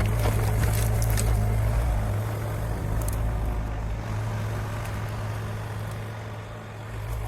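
Doosan DX35z mini excavator's diesel engine running steadily, with a few sharp clicks in the first second or so. Its deepest rumble eases after about two seconds.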